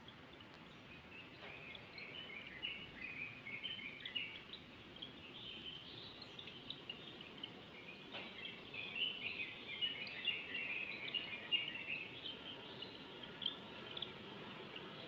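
Small birds chirping and twittering in quick runs of short, high notes, busiest for a few seconds near the start and again in the middle, over a faint steady hiss.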